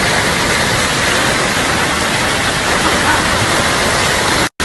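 Steady rush of storm floodwater from heavy rain and hail, cutting out for a moment near the end.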